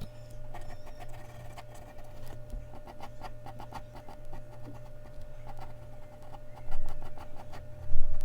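Mechanical pencil scratching on Bristol paper in quick runs of short strokes, with a steady low hum underneath. Two louder low thumps come near the end.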